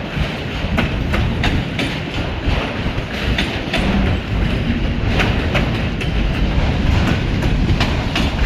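Long freight train rolling past at speed: a steady rumble of wheels on rail, with frequent sharp clicks and clacks as the wheels cross rail joints.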